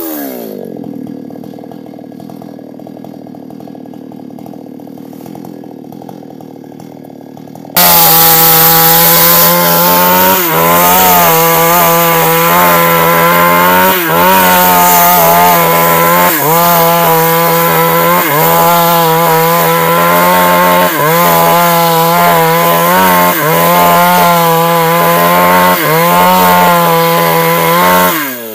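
Two-stroke New West chainsaw dropping to idle, idling for several seconds, then abruptly running at full throttle through the wood of a big sengon trunk. Its note sags briefly every couple of seconds under the load of the cut, then falls off again right at the end.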